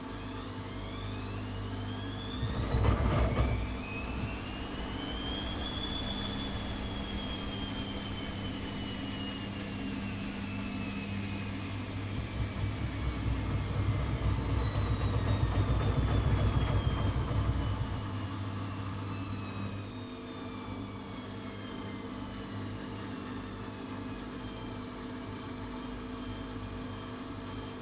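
ATLANT 70C1010 washing machine running a spin: the motor's whine rises for about six seconds, then falls slowly as the drum slows. There is a heavy knock about three seconds in, and a louder low rumble a little past the middle.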